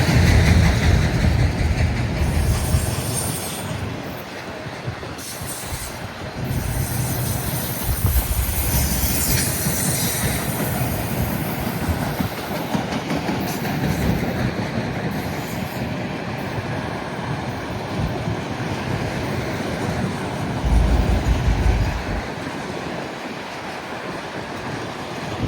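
Freight train rolling past: its cars' steel wheels clatter over the rails, with some wheel squeal. Gusty wind buffets the microphone, heaviest about 21 seconds in.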